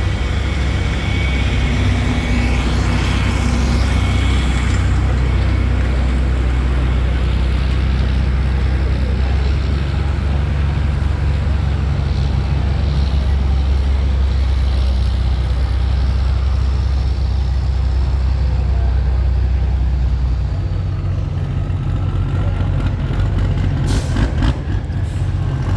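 Pulling vehicle's engine running hard with a steady, deep drone that changes and eases about twenty seconds in; a few sharp knocks near the end.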